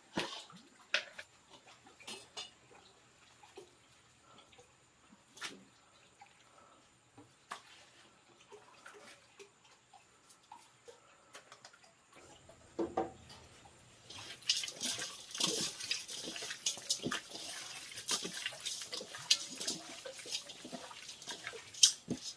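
Water splashing and running, as in hand-washing in a basin, starting about fourteen seconds in. Before it come scattered light clicks and knocks.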